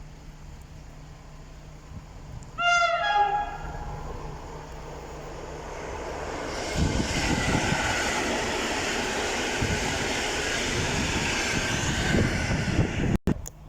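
A pair of coupled PKP EN57 electric multiple units: the horn gives one short, loud blast about three seconds in, then the train runs past with wheels rumbling and clattering over the track, loudest in the second half. The sound cuts off abruptly near the end.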